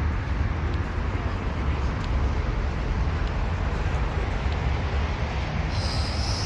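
Steady low vehicle rumble, with a brief high hiss near the end.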